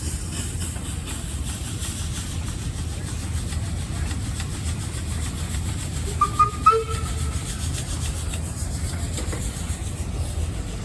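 Steady low mechanical rumble of running machinery, with a couple of short squeaks about six seconds in.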